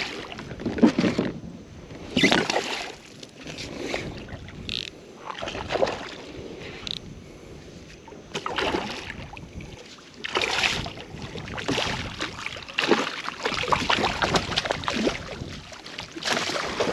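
Choppy water splashing and slapping against a kayak's hull in irregular surges every second or two, with wind on the microphone.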